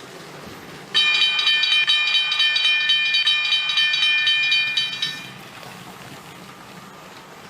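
A train whistle sound effect from the Lego Powered Up app, a loud steady high-pitched tone starting abruptly about a second in and lasting about four seconds. Under it runs the faint rattle of the Lego train rolling over plastic track.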